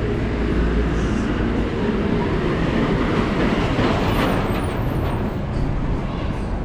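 Steady low rumble of vehicle traffic and street noise.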